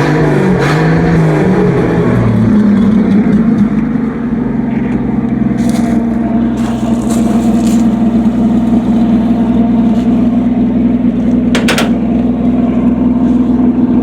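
A 1966 Chevy C10's 250 inline-six engine running loud: revved up and down briefly at first, then holding a steady fast idle.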